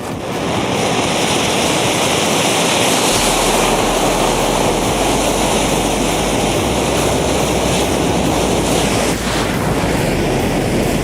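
Steady loud rushing of a large mass of burning matches flaring as one big flame. It swells up in the first half-second, then holds even throughout.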